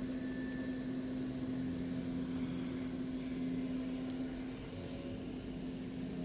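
Steady hum of air conditioning running, with one constant low tone.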